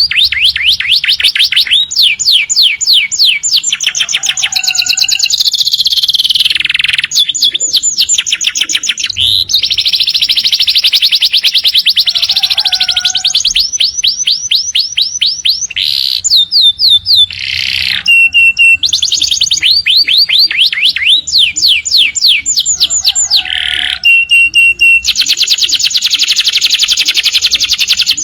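Domestic canary song: long, loud, almost unbroken runs of rapid high trills, each a fast string of repeated downward-sweeping notes, switching between phrases every few seconds with only brief breaks.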